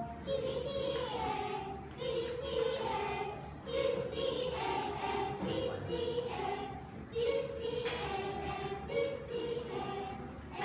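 A class of young children singing together in unison: a simple two-note melody in a steady beat, stepping between a higher note and a lower one. The notes are sung on the letter names C and A, in place of sol and mi.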